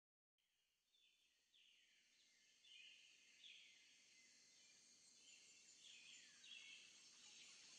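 Faint outdoor ambience: a bird calling over and over, each call a short downward-sliding note, over a steady high hiss. It begins after a brief moment of silence.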